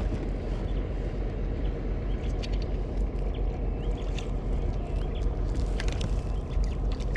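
Wind buffeting the microphone as a steady low rumble, with a few short chirps and faint clicks above it.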